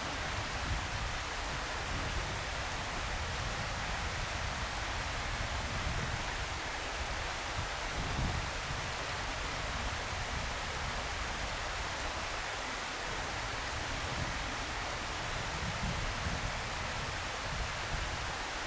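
Steady outdoor hiss with irregular low rumbling from wind buffeting the microphone.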